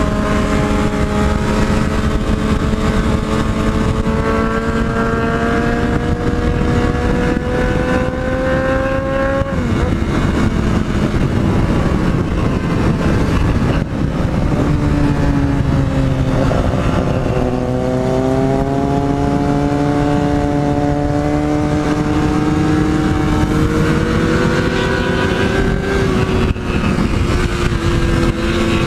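Yamaha MT-03 motorcycle's parallel-twin engine accelerating hard. Its pitch climbs steadily through each gear, drops sharply at an upshift about a third of the way in, then climbs again with more shifts in the second half.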